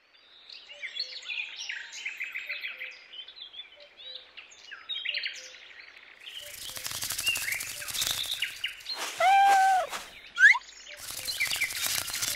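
Small birds chirping and twittering in quick, high calls. About halfway in, a dense rapid fluttering joins them, with a louder held whistled call and a short rising whistle a moment later.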